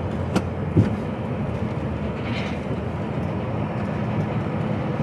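Heavy goods lorry heard from inside its cab while driving: a steady engine and road rumble. There is a sharp click about a third of a second in and a brief thud just under a second in.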